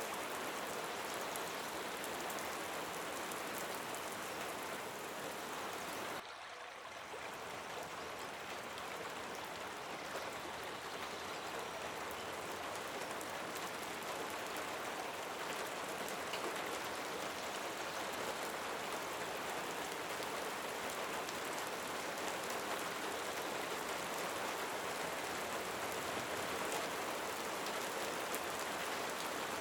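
Steady rain falling, an even hiss with many fine drop ticks. About six seconds in it drops suddenly a little quieter, then slowly swells back.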